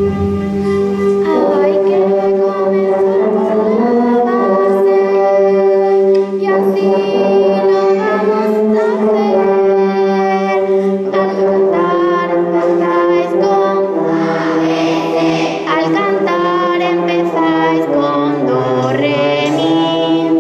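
Choir singing a melody over a sustained low accompanying note.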